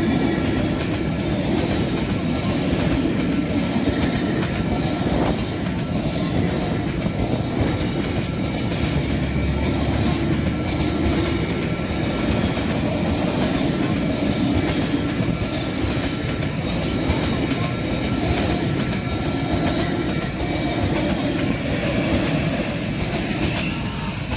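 Train rolling past steadily, its wheels rumbling on the rails, with a thin high squeal from the wheels.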